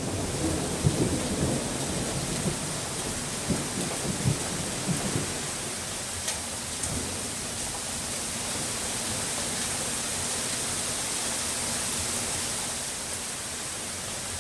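Steady rainfall with a low roll of thunder in the first few seconds that dies away, leaving an even hiss of rain.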